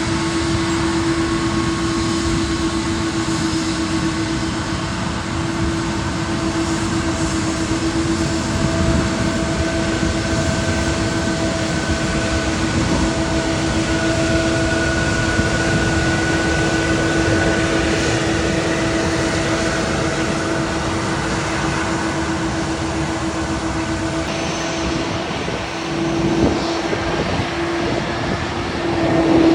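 Boeing 777-200ER's Pratt & Whitney PW4000 turbofan engines running at low power: a steady jet rush with a constant droning hum and a fainter, higher whine over it. The note struck the recordist as unusual for these engines. The sound swells briefly twice near the end.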